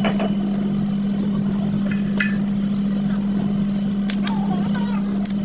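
A steady low machine hum, with a few sharp metallic clicks and clinks of hand tools working on a drive shaft at scattered moments.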